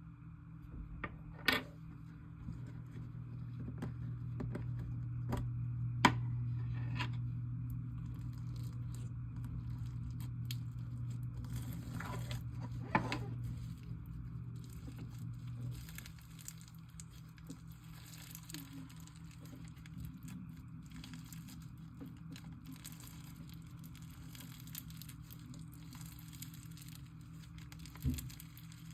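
Half bingsu, half cloud slime being stretched and mixed by hand, giving soft tearing and crackling sounds, with a few sharp clicks in the first several seconds.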